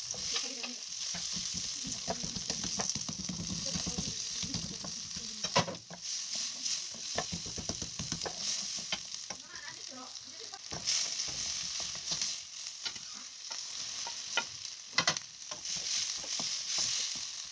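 Onion and pepper slices sizzling in melted butter in a wok, stirred with a wooden spatula that scrapes along the pan. There are a few sharp knocks.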